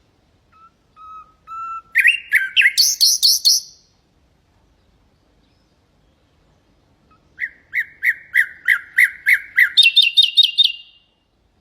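Nightingale singing two phrases. The first opens with a few soft whistled notes, then a quick run of repeated notes that jumps higher. The second, starting about seven seconds in, is a string of about ten evenly repeated notes ending in a fast, higher series.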